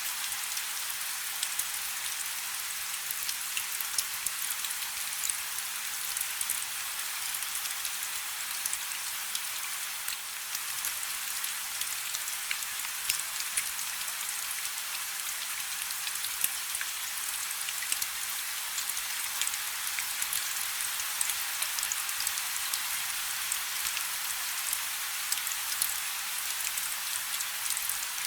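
Steady rain falling on a river's surface: a dense even hiss with many small sharp drop ticks, and a faint low hum underneath.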